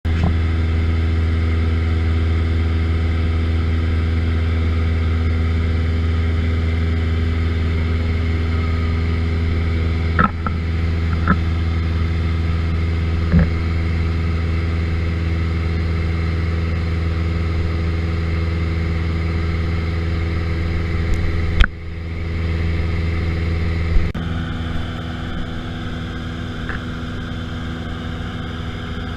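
Aircraft engine drone, running steadily with an even, humming note. A few sharp clicks or knocks sound over it, the loudest about three-quarters through. After that the drone drops a little in level and changes in tone.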